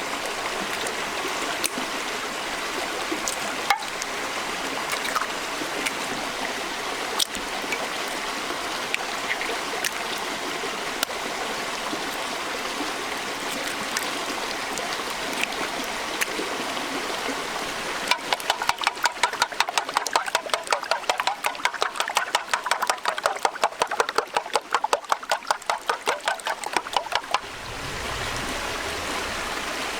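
Steady running-water sound like a stream. About eighteen seconds in, a fast, even series of sharp knocks, about five a second, joins it and stops suddenly some ten seconds later.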